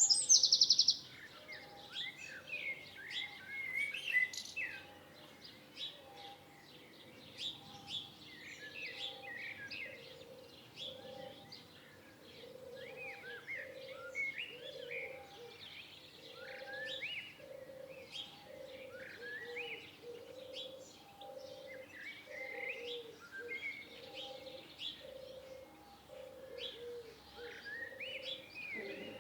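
Several songbirds chirping and singing in short, quick rising and falling calls. A loud rapid trill ends about a second in. A low sound repeats about once a second through most of the rest.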